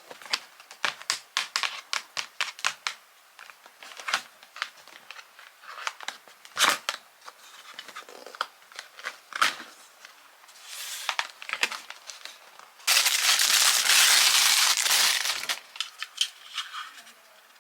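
Cardboard and plastic packaging being unboxed by hand: a run of quick clicks and taps, then a loud tearing and crinkling of the wrapping for about two and a half seconds near the end.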